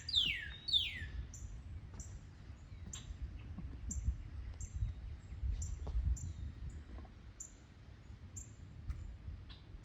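Birds calling: a few quick whistled notes sliding downward at the start, then short high chirps repeating about one and a half times a second, over a low rumble.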